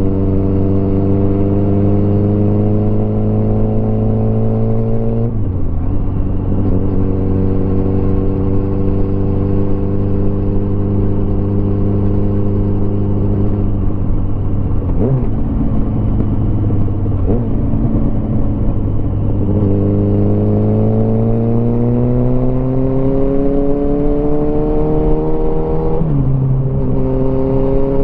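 Motorcycle engine under way, its pitch climbing as it accelerates and dropping sharply at an upshift about five seconds in and again near the end. In between it runs fairly steadily, with a brief throttle change partway through, over a steady rush of wind and road noise.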